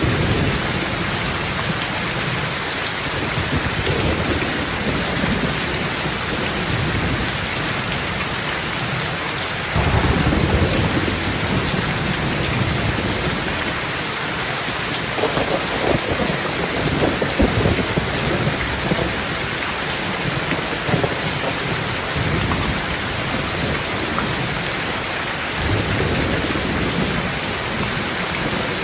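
Steady rain in a thunderstorm, with rolling thunder. A loud low rumble of thunder breaks in suddenly about ten seconds in, followed by crackling peals, and another rumble swells near the end.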